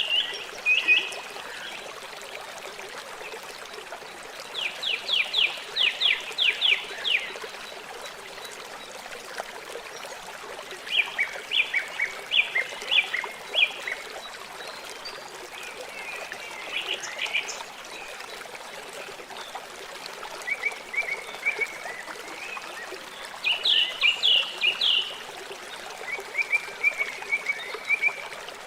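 A river flowing steadily, with a bird singing over it: short runs of rapid, high chirping notes repeated every few seconds, louder than the water.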